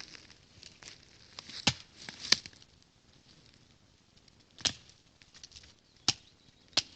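Kukri blade chopping thin branches for kindling: five sharp, separate strokes at uneven intervals.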